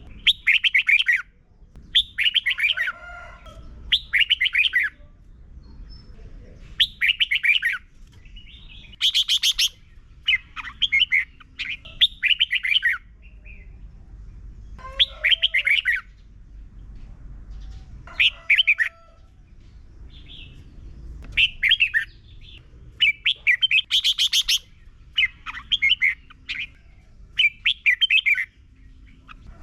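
Red-whiskered bulbul singing: short, loud, warbling phrases of about a second each, repeated over and over with brief pauses between them.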